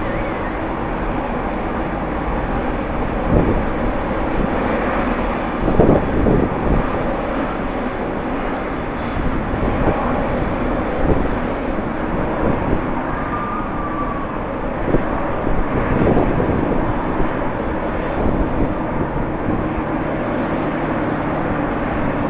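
Airliner engines running, a steady rumble with short gusty swells of wind on the microphone.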